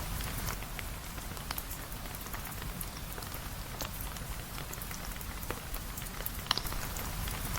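Steady rain with many scattered sharp ticks of drops and a low rumble underneath; one louder, sharp click comes about six and a half seconds in.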